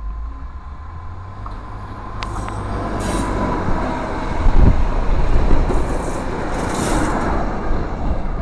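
Works train of flat wagons passing close by, hauled by a locomotive: a low rumble and the clatter of wagon wheels on the rails, growing louder about two seconds in. A few short bursts of high hiss come through as the wagons pass.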